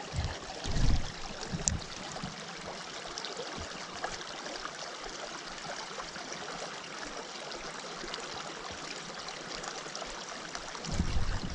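Small mountain creek running over rocks: a steady rush of water. A few low thumps come in the first two seconds, and a low rumble starts near the end.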